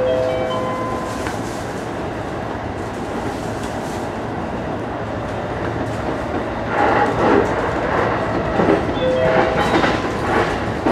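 JR E233-1000 series electric train running at speed, a steady rumble with a short, steady whine near the start and again near the end. About two-thirds of the way in, the wheels start clattering over rail joints in an uneven run of knocks.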